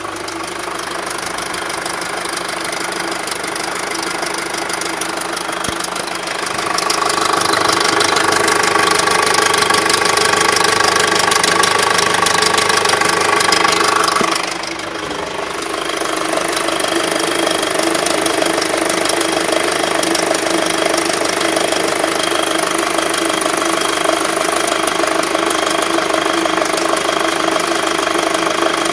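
Skoda Octavia vRS 2.0 TFSI turbocharged four-cylinder petrol engine idling roughly with a fast tapping, a noise that shows only once the engine is warm. About six seconds in it gets louder with an added whine for around eight seconds, then settles back.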